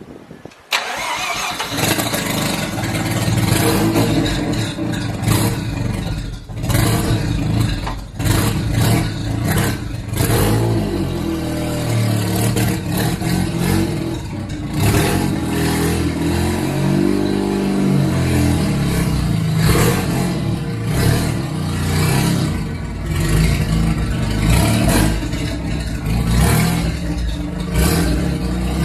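Mazda RX-7 FD3S's 13B twin-rotor rotary engine, fitted with a big single turbo and no exhaust, starting about a second in and then running very loud and uneven, with throttle blips that rise and fall in pitch and many sharp cracks and pops.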